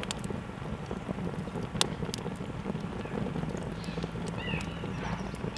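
Campfire crackling with scattered sharp pops, one louder pop a little under two seconds in.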